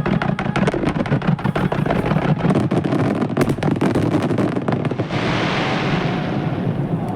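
Finale barrage of aerial fireworks: rapid, overlapping bangs of shells bursting in quick succession. About five seconds in they give way to a steady, dense crackle.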